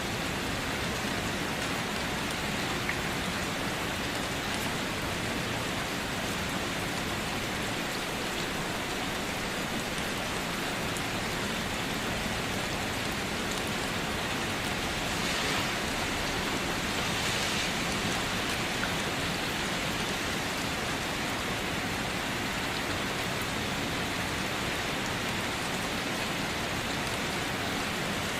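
Steady rain falling on a surface, an even hiss of many drops, swelling slightly about halfway through.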